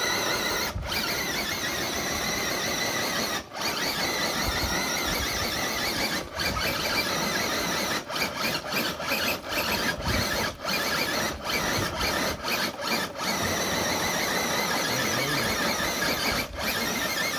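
Traxxas TRX4 RC truck's electric motor and gear drivetrain whining steadily under load as it pulls a weighted sled. The whine cuts out briefly a few times, in a quick stutter of short throttle lifts in the middle.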